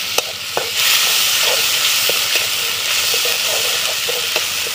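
Onion, green-chilli and garlic pastes sizzling in hot oil in a metal kadai. The hiss grows louder about a second in, while a metal spatula scrapes and clicks against the pan several times as it stirs.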